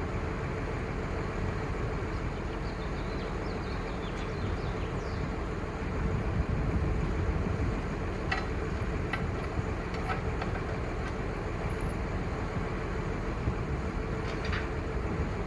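Heavy truck's 5.9L Cummins six-cylinder turbo diesel running steadily, with a steady whine over it and a few light clicks about eight to ten seconds in.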